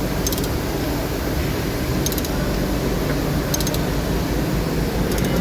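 Steady low mechanical rumble with short clusters of light, rapid high clicks about every one and a half to two seconds.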